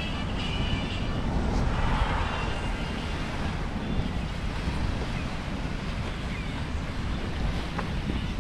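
Wind buffeting an action camera's microphone during a bicycle ride, a steady low rumble and hiss.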